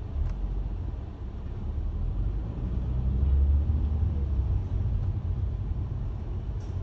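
A car driving, heard as a steady low road and engine rumble that swells about three seconds in and then eases slightly.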